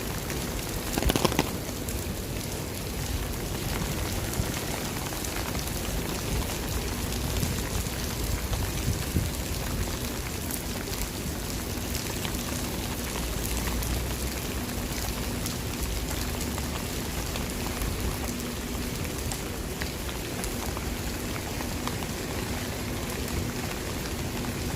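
Steady rain falling, with scattered sharp ticks of drops striking nearby surfaces and a brief louder burst about a second in.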